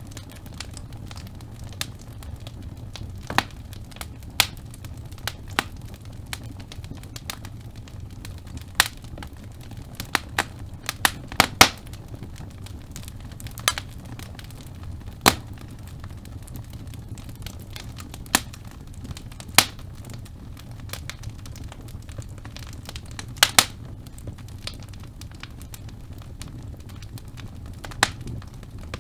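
Wood fire burning in a fireplace: a steady low rumble of flames with irregular sharp crackles and louder pops from the burning logs.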